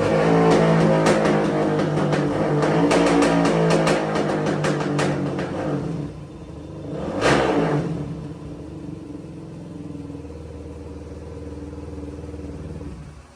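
Suzuki DR-Z400 single-cylinder four-stroke with an MRD exhaust, running on a dyno. It revs up sharply and falls back about seven seconds in, then runs steadily at a lower speed until it cuts off at the end.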